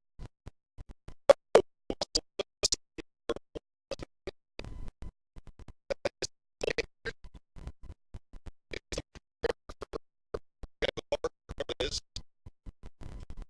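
Choppy, crackling recording sound: irregular rapid clicks and short scratchy bursts, with the audio cutting in and out between them, the faulty sound of the recording.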